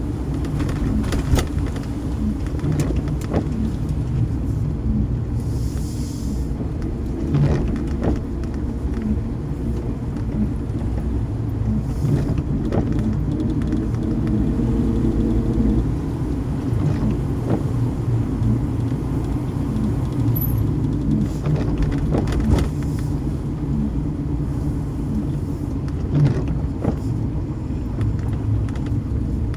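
Car driving along: a steady low road and engine rumble, with occasional light knocks and clicks scattered through it.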